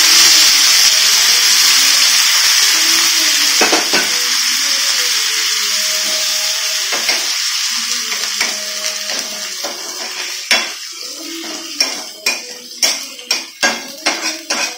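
Boiled country chicken and its cooking water poured onto a hot tawa of oil and onions, sizzling loudly, the sizzle slowly dying down. From about ten seconds in, a metal spatula scrapes and taps against the tawa in a quick run of clicks as the chicken is stirred.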